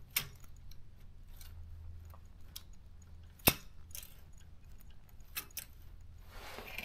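Metal type bars of a Daro 20 typewriter clicking and clacking as they are worked back and forth by hand to loosen sticky ones. Scattered sharp clicks, the loudest about three and a half seconds in.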